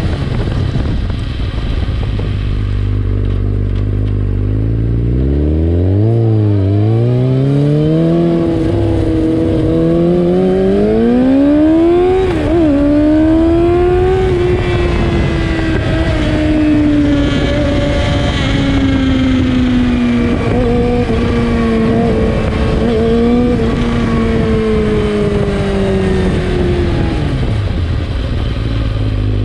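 2003 Yamaha YZF-R6 inline-four running through an Akrapovic exhaust with the dB killer removed. The engine note starts low, climbs in pitch from about five seconds in with brief dips, holds high and slowly sinks for a long stretch, then drops back low near the end.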